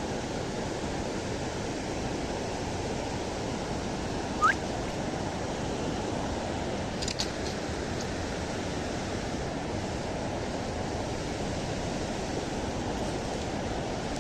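River water rushing steadily. A brief rising chirp sounds about four and a half seconds in, and a few faint clicks come a little later.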